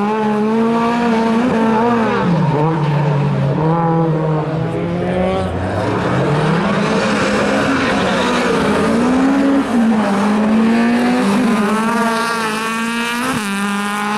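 A rally car's engine revving hard and being driven through the gears, its pitch climbing and then dropping several times as the driver shifts and lifts through the corners.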